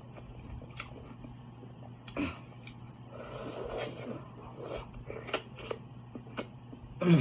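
Close-up eating sounds of a person chewing seafood: scattered wet clicks and smacks, with a longer sucking, slurping stretch about three seconds in, over a steady low hum. A brief hummed 'mm' comes at the very end.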